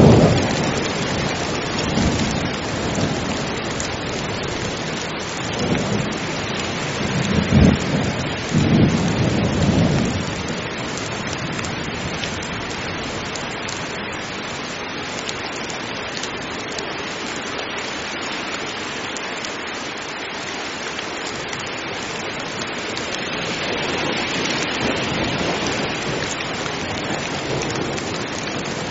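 Heavy rain falling steadily, with thunder rumbling low through the first ten seconds or so before dying away. The rain swells a little louder in the last few seconds.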